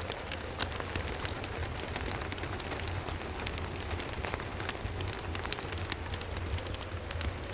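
Steady rain with a wood fire crackling over it: many sharp, irregular pops and snaps from the burning wood, and a continuous low rumble underneath.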